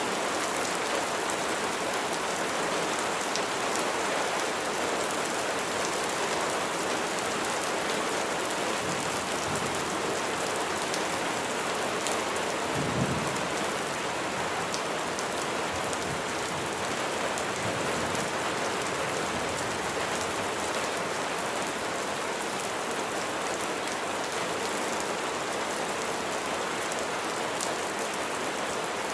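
Steady rain falling, an even hiss of drops on a surface. About halfway through there is one brief low thump.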